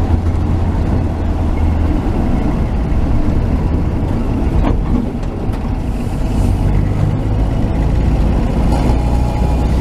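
1949 Chevy truck's straight-six engine and road noise heard from the cab while driving, fully warmed up. The engine note drops about two seconds in and picks up again about two-thirds of the way through, with one short squeak near the middle.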